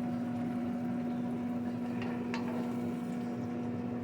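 A pot of vegetables in chicken broth simmering on the stove, a steady bubbling hiss over a constant electric hum, with two light clicks about two seconds in.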